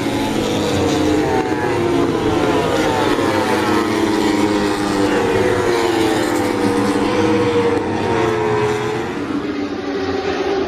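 Racing motorcycle engines at high revs, several at once, their pitch repeatedly rising and falling as the bikes accelerate and shift gears.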